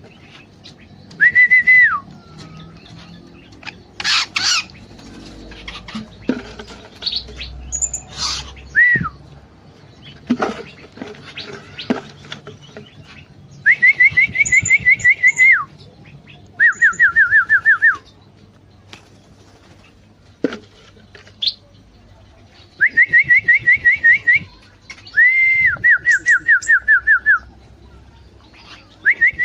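Cucak songbirds in an aviary calling. A loud, high whistled phrase of quick even notes comes five times, with softer chirps and short calls in between.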